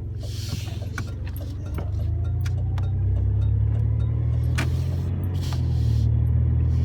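Truck driving, heard from inside the cab: a steady low engine and road drone that grows a little louder about two seconds in, with scattered small clicks and rattles.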